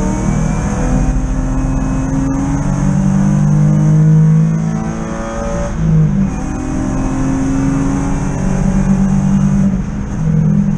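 BMW E36 323i race car's straight-six engine heard from inside the cabin, pulling hard with rising revs. The revs dip briefly about six seconds in and again near the end, as at gear changes, then climb again.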